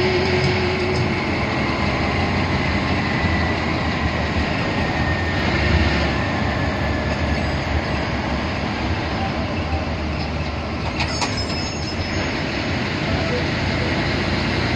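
Steady engine and road noise of a moving bus.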